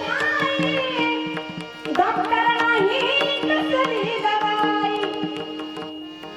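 Devotional kirtan music: a voice singing a melodic line over a steady held drone and regular hand-drum strokes, growing quieter near the end.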